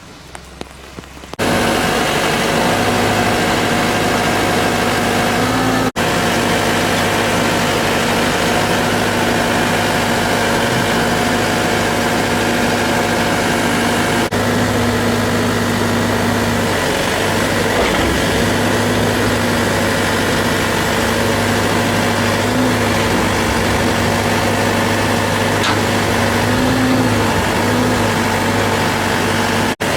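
An engine idling steadily close by, starting abruptly about a second and a half in.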